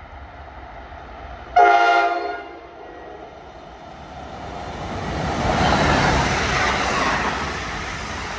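NJ Transit electric train sounds one short blast of its horn about 1.5 seconds in. It then passes the platform, and the rumble and rush of the train grow to a peak about six seconds in as the bi-level Multilevel coaches go by.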